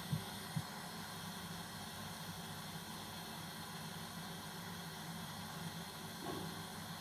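A hand-held heat torch blowing steadily with an even hiss and a low hum, heating solder-seal heat-shrink connectors so the sleeves shrink and the solder melts onto the copper wires. Two light clicks come near the start.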